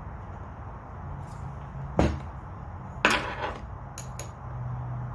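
Hand tools being handled during work on a chainsaw's bar nuts: two sharp knocks about a second apart, the second with a short rattle, then a couple of light clicks.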